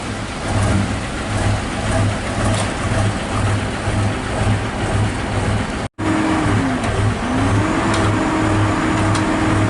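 Komatsu excavator's diesel engine running, with a low rhythmic throb about twice a second. A brief dropout about six seconds in, after which a steady whine joins, dipping in pitch and coming back up about a second later.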